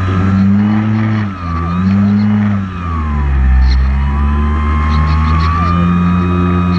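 Multirotor drone's motors and propellers whining loudly, several pitches sliding down and back up together as the rotor speeds change while it manoeuvres, with two brief dips about a second and a half in and near three seconds in.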